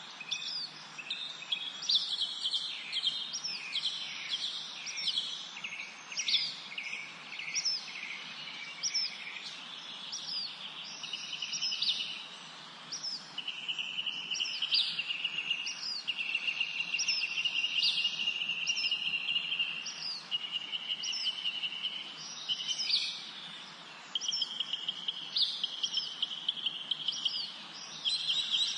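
Several songbirds singing together: repeated short high chirps throughout, joined about halfway through by long, fast trills, over a faint steady background hiss.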